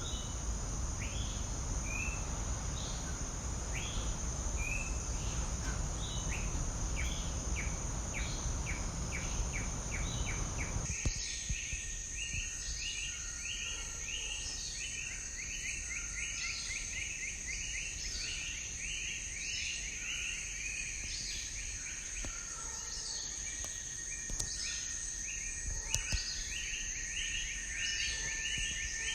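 Insects trilling steadily with a bird giving short chirps over and over. About eleven seconds in, the low rumbling background drops away abruptly and a lower steady insect tone takes over under the chirps.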